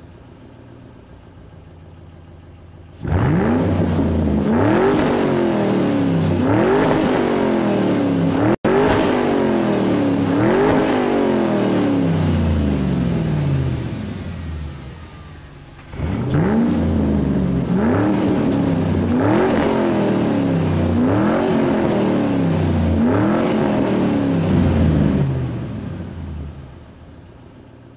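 Car engine being revved over and over, each rev rising quickly in pitch and sinking away, roughly one every second and a half, in two runs with a short drop between them.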